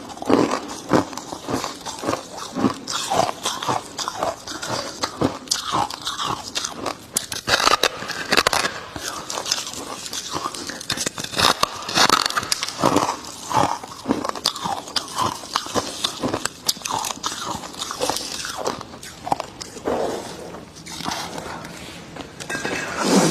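A chunk of freezer frost bitten and chewed close to the microphone: a dense, irregular run of crisp crunches that goes on throughout.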